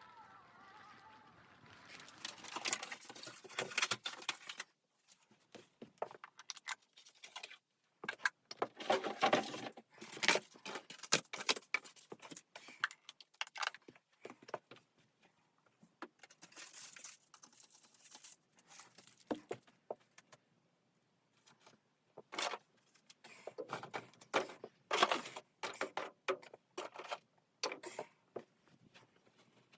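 Irregular clinking and rattling of small hard objects being handled, in clusters with short pauses between them.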